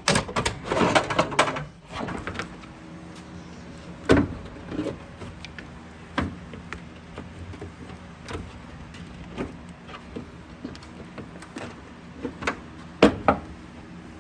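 Hand work on a light airplane's engine parts: a busy rattle of handling in the first two seconds, then single sharp knocks and clanks every couple of seconds over a faint steady hum.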